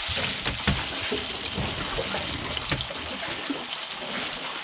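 Squid rings sizzling in oil in an aluminium wok, a steady hiss with small clinks and scrapes of a fork stirring them against the pan.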